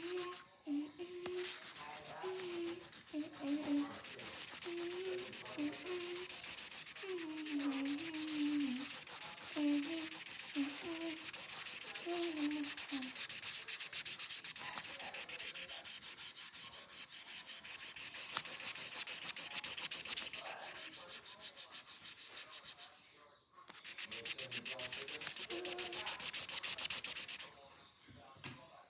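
Marker tip scribbling rapidly back and forth on paper while colouring in, a fast, even run of scratchy strokes. It pauses briefly a little before the end and then resumes for a few seconds.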